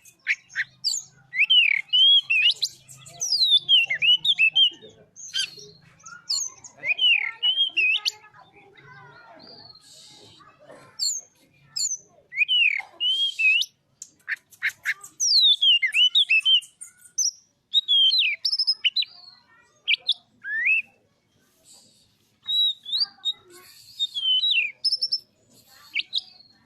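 Oriental magpie-robin (kacer) singing: loud, varied whistled phrases of quickly sweeping notes and short rattling runs, delivered one after another with brief pauses between bursts.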